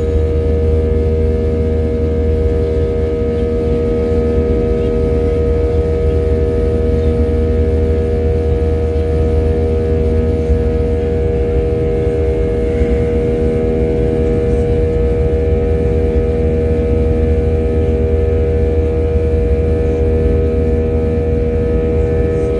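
Airliner cabin noise in flight: a steady low rumble of engines and airflow with a constant hum of several held tones.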